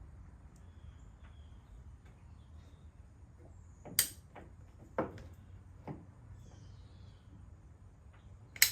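A few separate sharp knocks and clicks from caulking work in a pickup truck bed, the loudest about four seconds in and just before the end, over a low steady background with a few faint high chirps.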